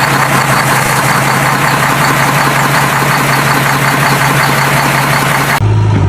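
An engine running steadily with a loud hiss over a held hum. Just before the end it switches abruptly to a deeper, smoother engine hum.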